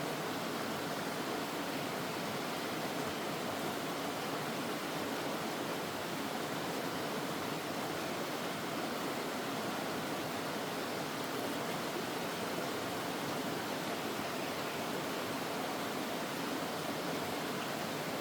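Mountain stream water rushing steadily over rocks, an even, unbroken sound of flowing water.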